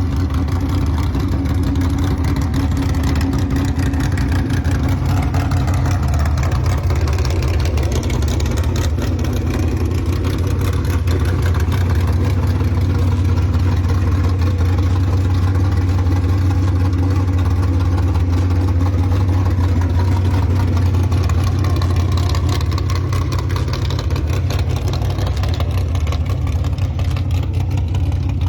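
Small-block 355 Chevy V8 of a 1955 Chevrolet Bel Air 210 running with a steady deep engine note, its pitch rising and falling slowly a few times.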